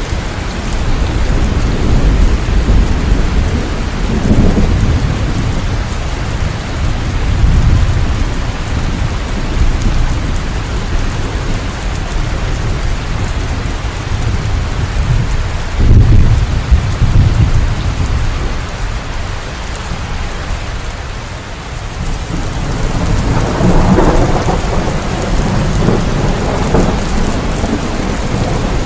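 Steady rain falling, with rolling thunder rumbling through it several times; the loudest rumble comes about sixteen seconds in, with another long roll near the end.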